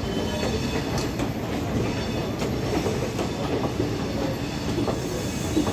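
Indian Railways passenger train rolling slowly along the track: a steady rumble and hiss of the coaches, with irregular clicks from the wheels.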